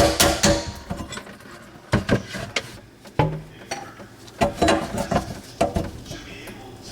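Hammer strikes on the old garbage disposal's metal mounting ring, a quick run of them ending about half a second in, then scattered metallic clanks and knocks as the unit is worked loose from the sink mount.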